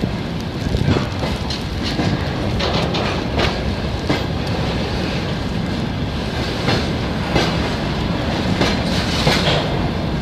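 Freight train rolling along the track, its wagon wheels knocking in an irregular clickety-clack over a steady rumble.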